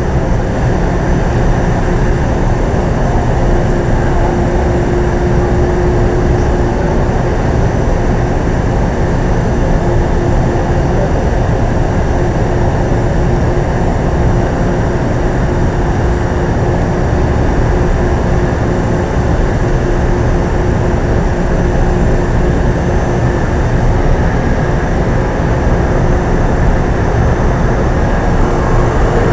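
Metro-North electric multiple-unit train running steadily at the platform: a loud, even rush of machinery noise with a faint steady hum through it.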